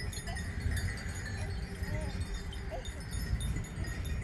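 Wind rumbling on the microphone, with a few faint, distant bleats from grazing sheep or goats.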